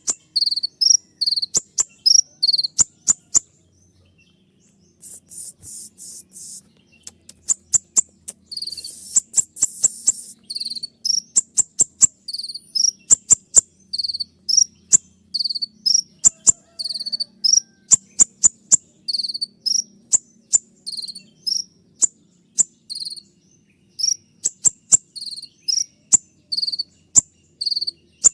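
Sunbird (kolibri ninja) singing rapid strings of sharp, high-pitched chip notes, each with a click-like attack: its 'tembakan' (shot) song. Two buzzy rattles come about five and nine seconds in, after a brief pause around four seconds.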